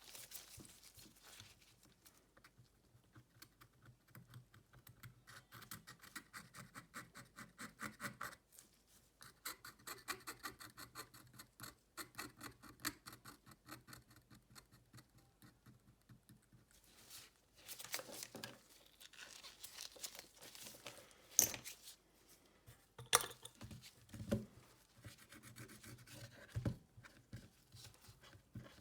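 Close-up scratching and rubbing with runs of fine rapid clicking, from hands and small tools working on a Xiaomi Redmi Note 9S smartphone, with a few sharp taps in the second half.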